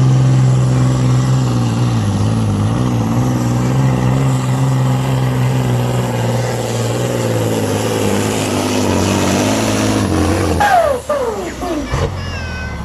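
Supersport pulling truck's diesel engine running hard under load, its pitch dropping and wavering as it drags the sled. About ten and a half seconds in, the revs fall away in several downward sweeps as the throttle comes off.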